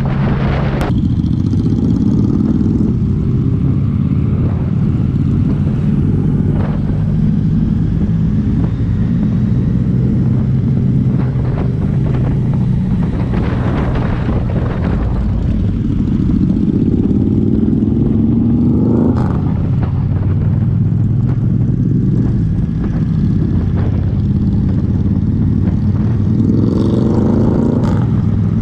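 Yamaha MT-09's three-cylinder engine running under way, heard from the bike with wind rush. Its pitch rises three times as it accelerates (near the start, about two-thirds in, and near the end), each rise breaking off sharply as the gear changes.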